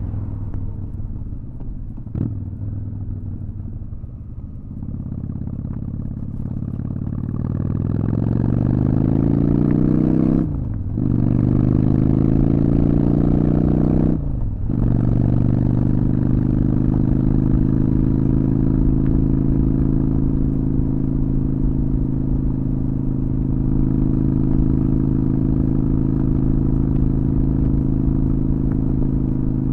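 Honda Shadow VT600's V-twin engine pulling away and accelerating, its pitch rising, dropping with an upshift about ten seconds in, rising again and shifting once more about fourteen seconds in. It then holds a steady cruising speed.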